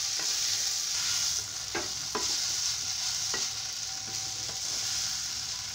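Soaked poha (flattened rice) being stirred with a wooden spatula in a non-stick kadhai of hot oil, with a steady sizzle and a few light scrapes and taps of the spatula against the pan.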